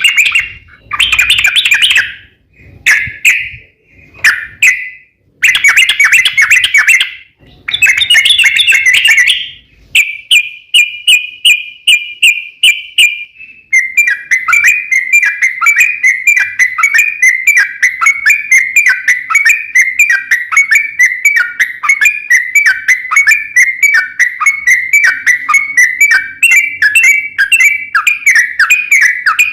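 Yellow-vented bulbul song: several short bursts of chattering notes in the first ten seconds, then a long rapid trill of fast repeated notes from about fourteen seconds on.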